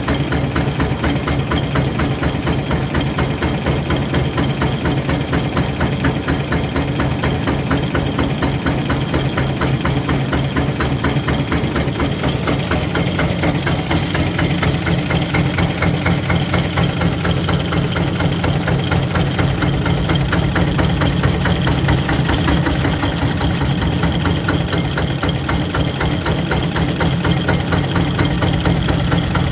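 Farymann LD 12 single-cylinder, one-litre air-cooled diesel engine running steadily, with the rapid, even knock of its firing strokes. Its low note grows slightly fuller about twelve seconds in.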